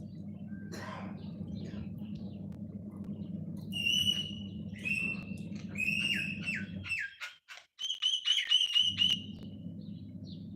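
Birds chirping and whistling: a run of clear, high whistled notes, several dropping sharply in pitch, clustered in the middle and latter part. Under them runs a steady low hum that drops out for about two seconds.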